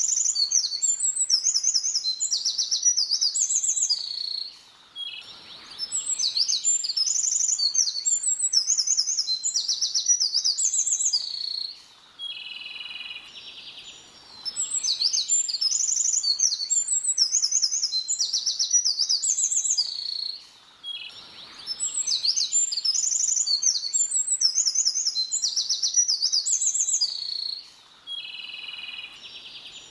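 A small songbird singing long, rapid, high-pitched songs of quick trills and whistles, each lasting about six seconds, with short pauses between them, four songs in all.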